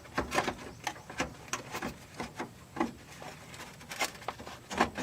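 Irregular clicks, knocks and scraping as a car air-conditioner cooling fan assembly is worked by hand into a tight space and catches on the parts around it. The loudest knock comes near the end.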